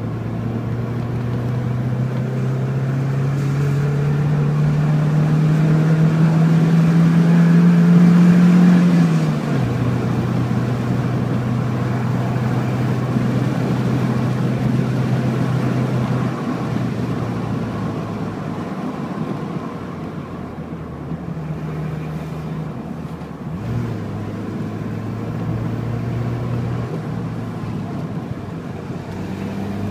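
Car engine running under load, its note climbing steadily for about nine seconds, then dropping sharply at an upshift and running on at lower revs; after about sixteen seconds the note eases off and wavers, with a brief pick-up near the end.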